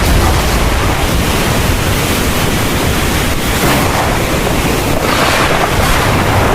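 Heavy thunderstorm rain pouring steadily, a dense hiss with a low rumble beneath it, swelling louder a little past the middle and again about two-thirds of the way through.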